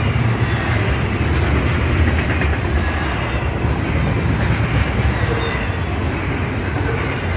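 Union Pacific freight train's cars rolling past on the track: a steady, loud, low rumble of wheels on rail, with faint brief squeals.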